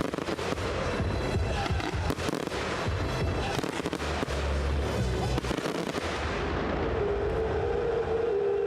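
Fireworks display: a dense run of shell bursts, bangs and crackle, thinning out after about six seconds, over music from the show's sound system. The music's held notes come through clearly near the end.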